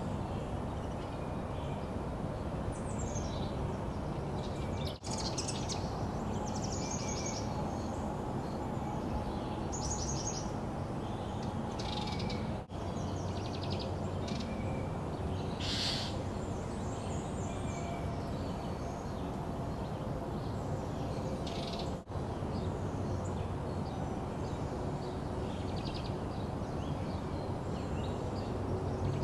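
Small songbirds chirping and giving quick trilled calls again and again, over a steady background hiss. The sound drops out briefly three times.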